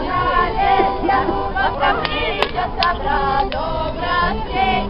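Crowd of many voices at once, adults and children singing and calling out over each other. Two sharp cracks stand out a little past two seconds in.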